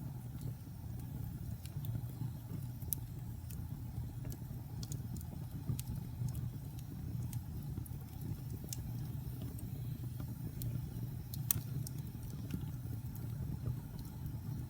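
Wood fire burning in a fireplace: a steady low rumble of the flames with scattered sharp crackles and pops from the burning logs, one louder pop about three-quarters of the way through.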